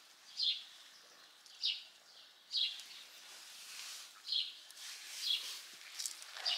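A bird calling repeatedly outdoors: six short, high chirps, each sliding slightly downward, about one a second, over a faint steady hiss.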